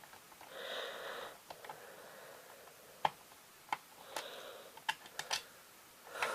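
Small plastic clicks and taps from handling VHS cassette shell parts, with two short scraping, rustling stretches: one about half a second in and one around four seconds in.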